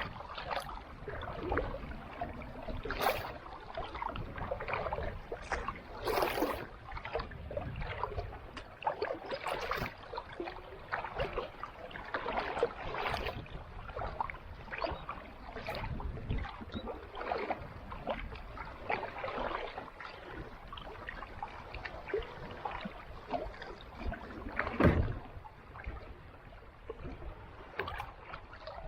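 Kayak paddle dipping into calm sea water, with splashes and drips from the blade at each stroke every few seconds. A sharper knock stands out near the end.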